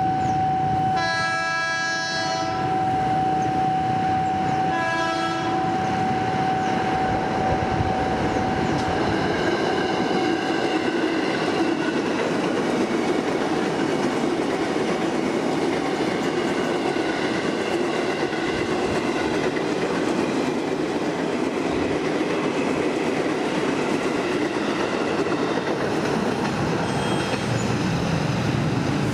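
Commuter electric train (ex-JR 205 series EMU) sounding its horn twice, a long blast about a second in and a shorter one about five seconds in, over a steady high tone that fades out around ten seconds in. The train then runs past with continuous wheel and rail noise and clickety-clack.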